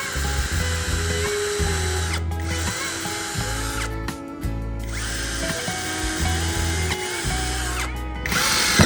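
Electric power tool motor running with background music, the motor sound dropping out briefly about two seconds in, around four seconds in and near eight seconds. A louder burst of noise comes right at the end.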